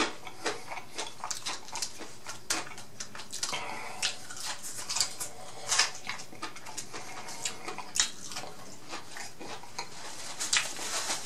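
Close-miked chewing of a fried boneless chicken wing: many short, irregular mouth clicks and smacks.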